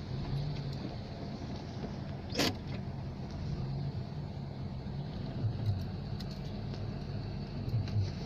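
Car engine idling, heard from inside the cabin: a low steady hum under an even hiss, with one sharp click about two and a half seconds in.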